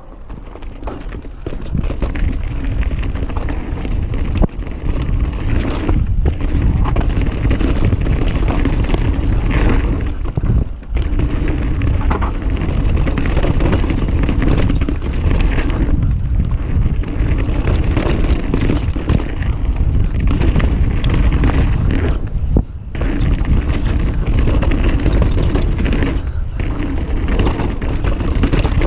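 Mountain bike descending a dirt trail, heard from an action camera mounted on the rider or bike: a steady rush of wind on the microphone mixed with tyres rolling over dirt and the bike rattling over bumps, with a few brief lulls.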